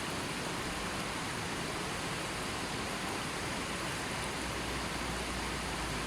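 Gently flowing river: a steady, even rush of water.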